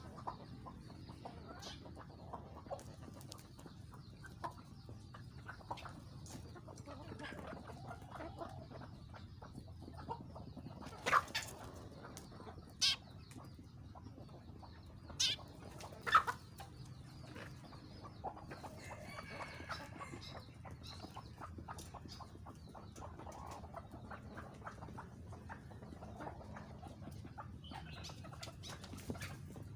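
Chickens clucking, with many small scattered taps and four short, louder sounds around the middle.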